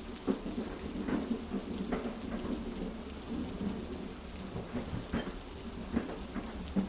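Heavy rain over a train carriage's steady low rumble, with sharp clacks from the track coming irregularly, roughly once a second.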